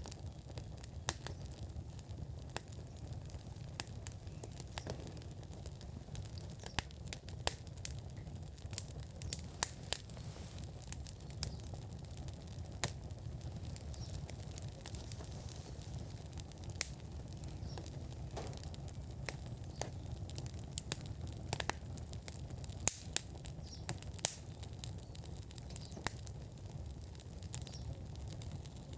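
Wood fire burning in an outdoor fire pit, crackling with frequent irregular sharp pops over a steady low rumble.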